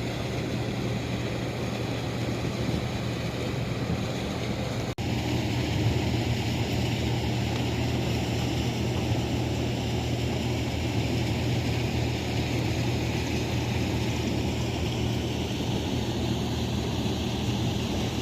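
A vehicle engine running steadily, a low hum with some rumble and rushing noise, cutting out for an instant about five seconds in.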